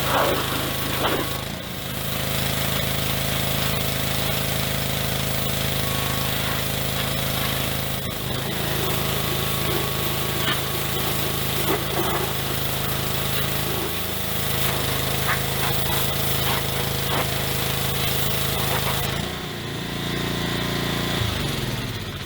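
Handheld electric power tool buffing rust off a steel wheel rim: a steady motor note with rough scraping as the wheel works the metal. Near the end it is switched off and its pitch falls as it spins down.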